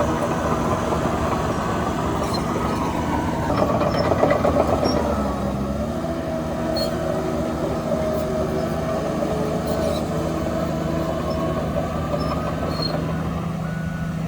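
Heavy diesel earthmoving machinery running steadily under load. The engine note swells and dips briefly about four to six seconds in, with a few short, faint, high squeaks.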